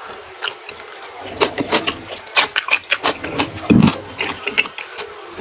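Close-miked chewing and crunching of raw vegetables and food: a rapid, irregular run of crisp clicks and crunches, with one deeper, louder mouth sound a little past the middle.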